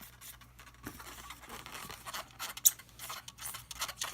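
Faint scratching and rubbing on a latex balloon sculpture as a Sharpie marker draws on it and hands handle the balloons, with one sharp click a little under three seconds in.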